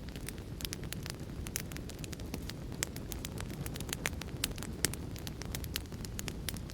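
Wood fire crackling: a steady low rumble of flames with sharp, irregular pops and snaps several times a second.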